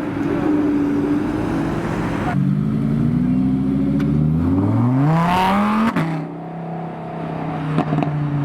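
A car's engine running, then revving up with its pitch climbing for about two seconds. It cuts off sharply and drops back to a lower, steady note.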